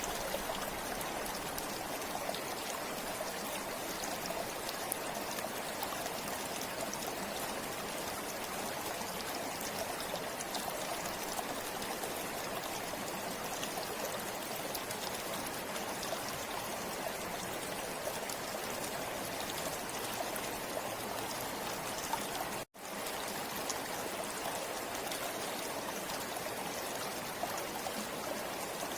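Forest river flowing steadily, a continuous rushing of water. The sound cuts out for an instant about three quarters of the way through.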